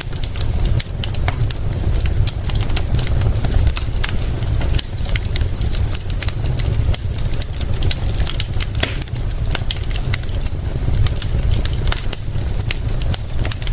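Wood fire crackling, with many sharp irregular pops and snaps, over a steady deep rumble and a hiss of rain.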